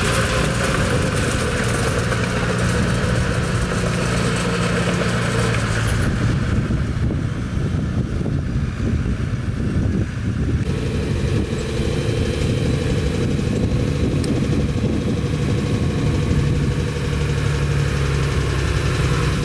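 Bulldozer's diesel engine running under load, easing off about six seconds in and picking up again about ten seconds in.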